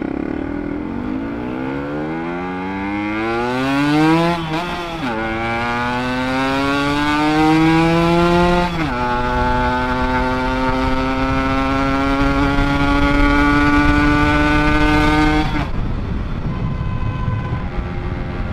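Ported Yamaha RX two-stroke single-cylinder motorcycle engine accelerating hard through the gears. The revs climb, drop at an upshift about five seconds in, climb again, drop at a second upshift about nine seconds in, then pull steadily higher until the throttle closes near the end.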